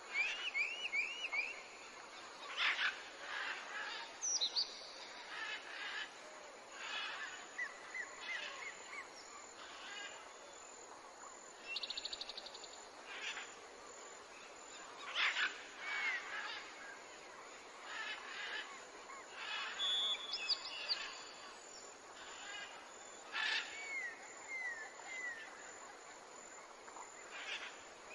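Wild birds calling in the background: scattered short chirps and falling whistled notes, with a brief rapid trill about twelve seconds in.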